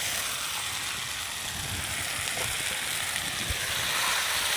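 Onion-and-spice masala with potatoes frying in oil in a pan: a steady sizzle.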